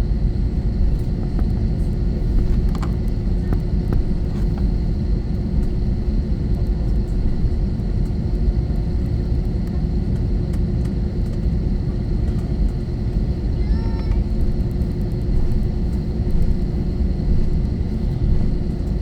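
Steady cabin noise of an Airbus A321-231 with its IAE V2500 engines running: a continuous low rumble with a steady hum.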